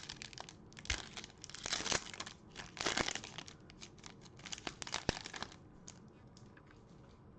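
A trading card pack's wrapper being torn open and crinkled, in a run of irregular rustles and sharp crackles that die away about five seconds in.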